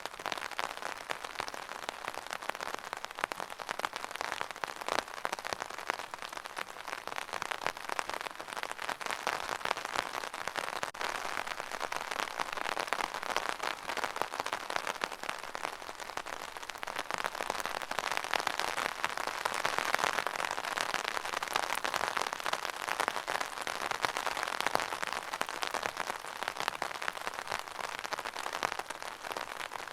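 Steady rain falling on a surface, a dense patter of many small drops with no thunder.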